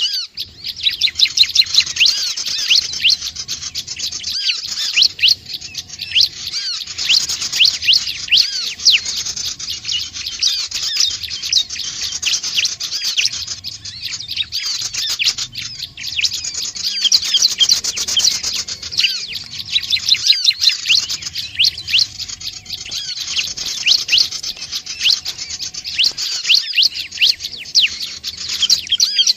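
Small songbird calls, given by the title as the Indonesian sogon, prenjak or ciblek (prinia-type birds): a fast, unbroken run of high, thin chirps and quick up-and-down trills that goes on without pause.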